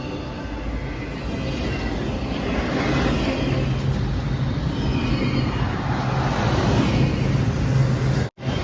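Steady engine noise of a vehicle running, with a low hum that grows stronger a few seconds in and a sudden cut near the end.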